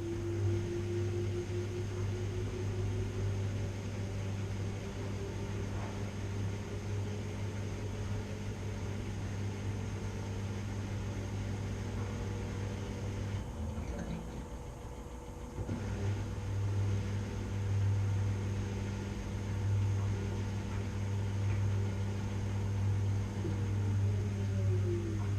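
Washing machine running: a steady motor hum with a higher whine that climbs in pitch over the first few seconds, a brief break in the hum about 14 seconds in, and the whine falling in pitch near the end.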